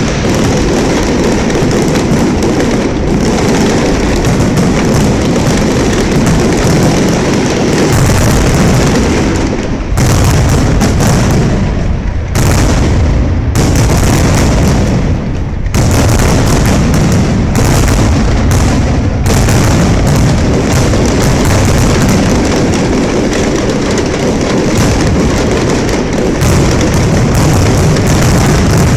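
Aerial fireworks display: a dense, continuous barrage of shell bursts, booming and crackling without a break, very loud on the microphone.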